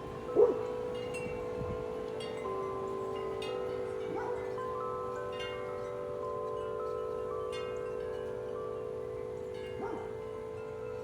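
Several large tuned wind chimes ringing in a strong wind, deep tubes struck again and again so their long tones overlap and hang on. A brief louder sound breaks in about half a second in.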